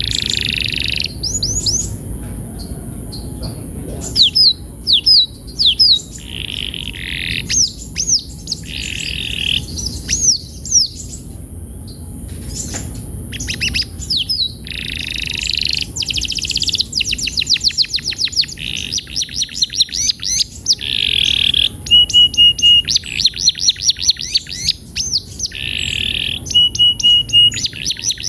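Domestic canary singing in quick varied phrases: upward slurred notes, fast rolling trills of rapidly repeated notes, and short held whistles.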